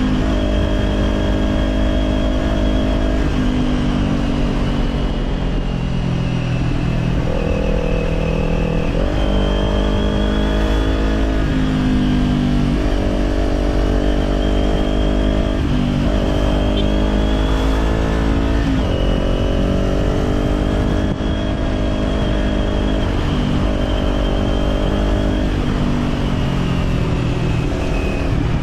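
Kawasaki Z400 parallel-twin engine through an Orion Katya slip-on exhaust, heard from the moving motorcycle. The engine note climbs and drops in pitch several times as the throttle and gears change, over a steady low rumble.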